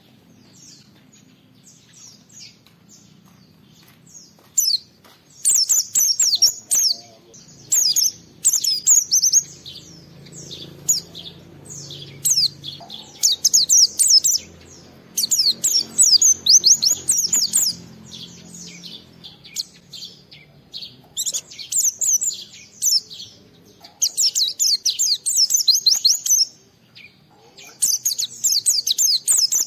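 White-eye (pleci) singing in bursts of rapid, high chirps and trills, each lasting a second or more, with short pauses between them. The song is sparse for the first few seconds and then comes thick and fast.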